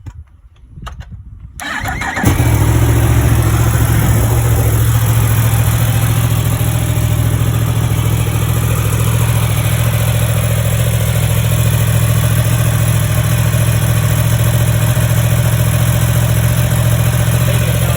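Yamaha R1's inline-four engine starting about a second and a half in, then idling steadily.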